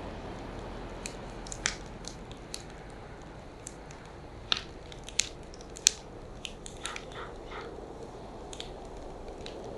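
Firewood burning, crackling with irregular sharp pops over a steady low rushing; a few louder pops come near the middle.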